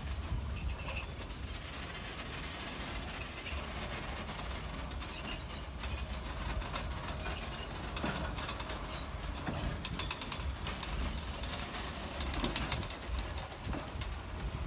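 Freight train of boxcars and container wagons rolling past, with a steady low rumble of the wagons and wheels. A thin, steady, high-pitched squeal from the wheels starts a few seconds in, fades around ten seconds in and returns near the end.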